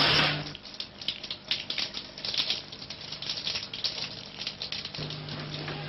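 Rapid, irregular typing on a keyboard: a quick run of sharp key clicks, with a steady low hum coming in near the end.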